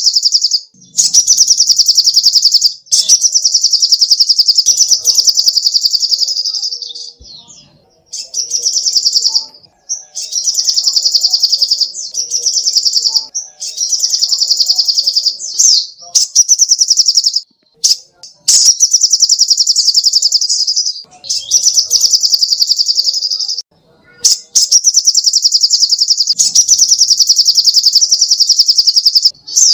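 A songbird singing long, rapid, high-pitched trills, each about one to two seconds long, repeated again and again with short pauses between them.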